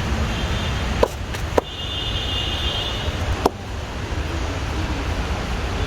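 Three sharp slaps of hands on bare skin during a massage, about a second in, half a second later and again near the middle, over a steady low rumble.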